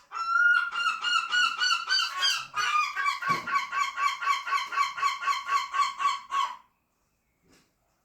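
Gull giving its long call: a few drawn-out notes, then a rapid run of about four notes a second, stopping about a second before the end.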